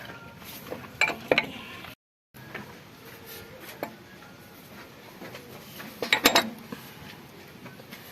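Metal tools and parts clinking and knocking together as they are handled: a few light clinks about a second in and a louder cluster of clanks about six seconds in.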